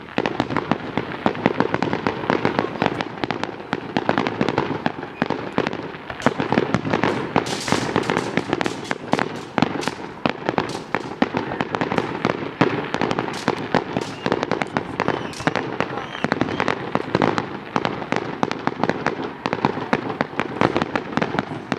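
Fireworks going off in a rapid, continuous run of many overlapping bangs and pops.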